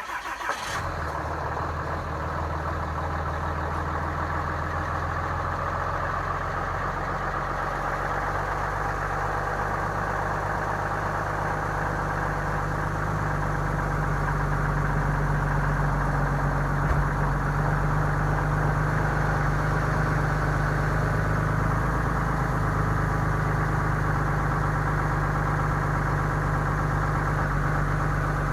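A 2015 Ram 3500's 6.7L Cummins inline-six turbodiesel catches on a 7-degree cold start and settles into a steady idle, getting slightly louder about halfway through.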